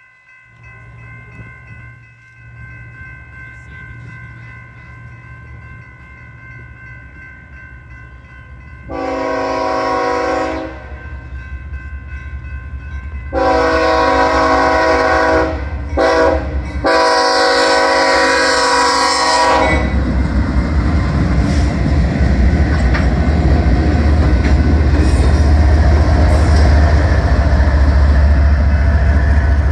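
Grade-crossing warning bell ringing steadily, then a BNSF diesel locomotive's air horn blowing the long, long, short, long crossing signal. From about two-thirds of the way in, the locomotive passes close by with a loud, low engine rumble and wheel noise.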